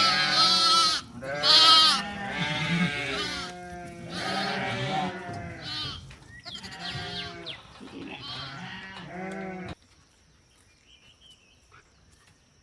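Several goats or sheep bleating, calling over one another in repeated quavering bleats, the loudest near the start. The bleating cuts off abruptly about ten seconds in, leaving near silence.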